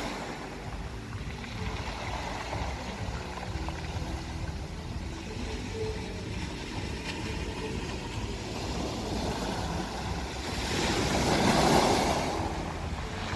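Sea waves washing on a beach, with wind rumbling on the microphone; a wave surges in louder near the end.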